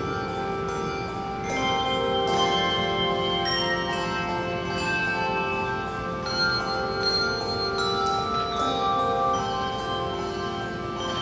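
Handbell choir playing a piece: many handbells struck in turn, overlapping tones ringing on.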